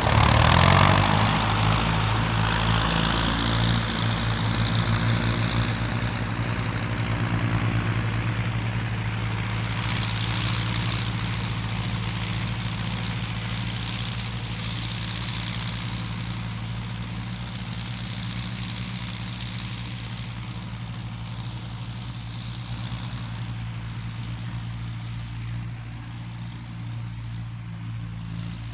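Diesel farm tractor engine running steadily under work, gradually getting fainter.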